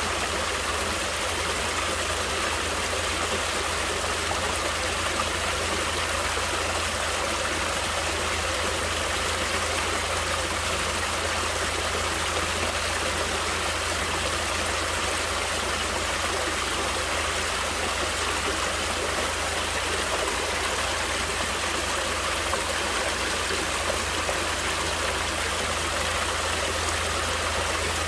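Flowing water in a stream, a steady rushing and trickling that holds an even level throughout.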